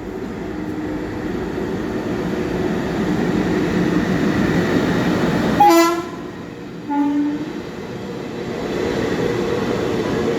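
Passenger train running into a station, its steady rumble growing louder, with two short horn toots a little over a second apart just past the middle.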